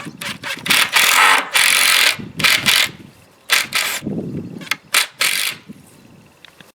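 A power driver running exterior decking screws into the 2x2 wooden frame, in several short bursts of about half a second each with pauses between.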